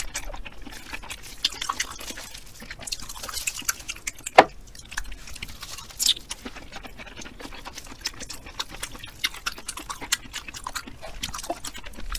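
Close-miked chewing of raw mackerel sashimi: a run of wet, sticky mouth clicks and smacks, with one sharp click a little over four seconds in.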